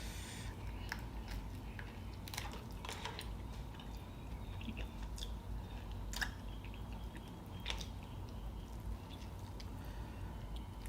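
Close-up eating sounds: quiet, moist chewing of crab and mussel meat, with a few scattered sharp clicks and crunches.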